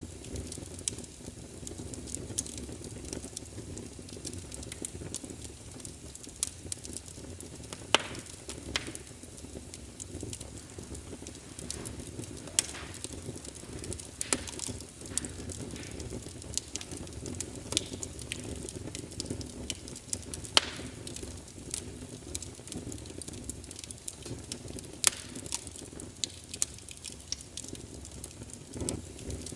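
Wood fire burning in a fireplace: a steady low rumble under frequent irregular crackles, with a few sharp, louder pops scattered through.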